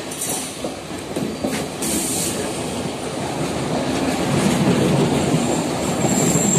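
Sri Lanka Railways Class S11 diesel multiple unit's carriages rolling slowly past along the platform as the train comes in to stop. The wheels on the rails grow louder midway, and a thin high-pitched squeal from the running gear starts near the end as it slows.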